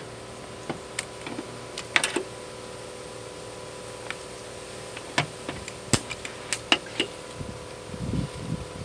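Dent-repair work on a van's steel tailgate: a dozen or so sharp, scattered clicks and taps over a steady faint hum, with a short low rumble near the end.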